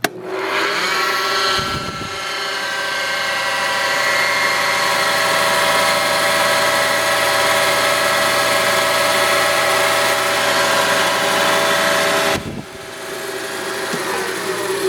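Dumore Series 25 toolpost grinder's 3 hp three-phase induction motor switched on by push button: it starts abruptly, its whine climbs to speed within about two seconds and runs steady. About twelve seconds in it is switched off and winds down, its pitch falling as it coasts.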